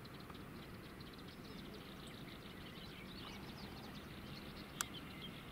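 Birds chirping over and over above a steady low rumble, with one sharp click near the end.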